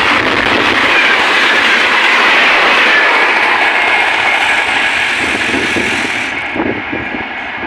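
Indian Railways express train passing at about 130 km/h: a loud, sustained rush of wheels and coaches on the rails that fades over the last couple of seconds, with a few separate wheel clacks over rail joints as the end of the train goes by.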